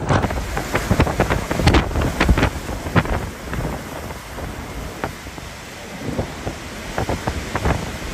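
Hurricane-force wind blasting the microphone: a heavy low rumble with sharp, frequent buffets. The gusts ease somewhat in the middle, then build again near the end.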